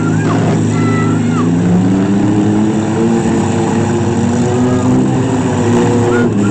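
Demolition derby vans and trucks with their engines running loud and revving as they manoeuvre and hit, the engine pitch rising and falling, with a few brief high squeals over the top.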